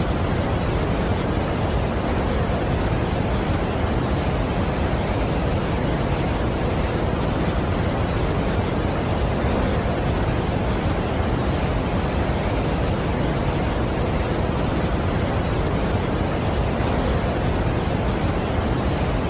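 Waterfall noise, as of Niagara Falls: a constant, even rush of falling water, deepest at the low end, with no change in level and no separate events.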